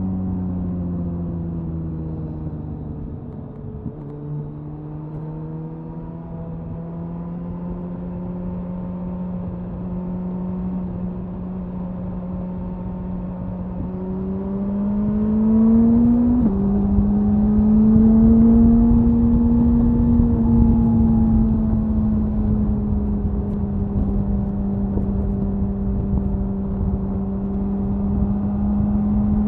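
Suzuki Hayabusa inline-four motorcycle exhaust at highway cruising speed, with wind rumbling underneath. The engine note falls off over the first few seconds and holds steady. About halfway through it rises under acceleration, then drops sharply as the bike shifts up a gear, and settles steady again.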